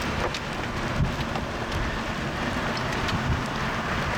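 Heavy rain beating on a vehicle, with many sharp drop strikes over a steady rush and a low rumble underneath. There is one louder knock about a second in.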